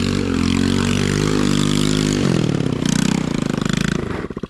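Small 110cc single-cylinder four-stroke ATV engine running at steady revs. About two seconds in, the revs drop and it chugs along at low speed with each firing pulse audible, easing further toward idle near the end.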